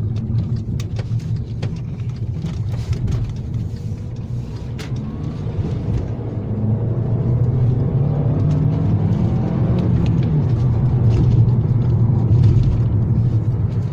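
Road car driving: the Volkswagen Golf 1.4 TSI petrol engine and road noise give a steady low rumble, and from about halfway through the engine note rises and grows louder as the car accelerates. A few light knocks come through early on.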